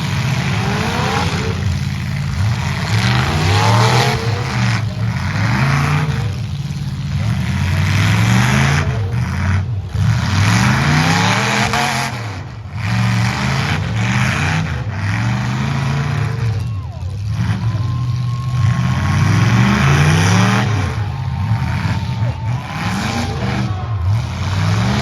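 Demolition derby trucks' engines revving hard up and down over and over, with loud bursts of noise between the revs.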